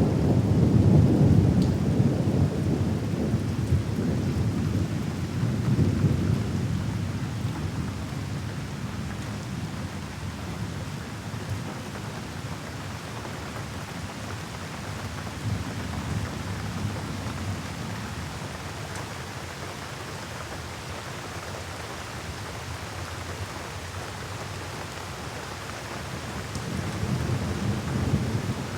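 Steady rain with rolling thunder. A rumble fades over the first few seconds, another swells around six seconds in, and a new one builds near the end.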